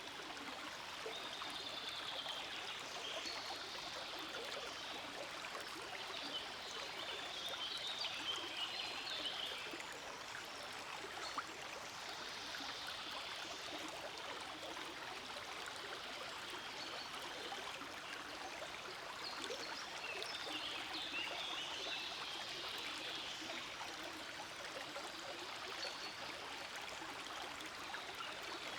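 Forest stream flowing steadily: a continuous babble of running water.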